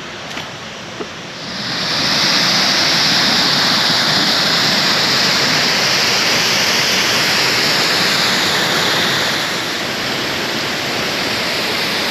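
Rushing river water, a steady wash that grows louder about a second and a half in.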